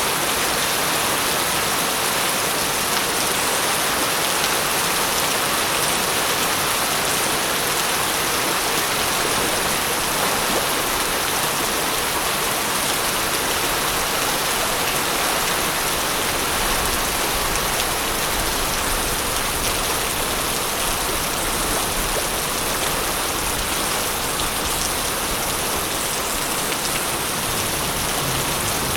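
Steady, heavy rain falling on surfaces: a constant, even hiss of many drops.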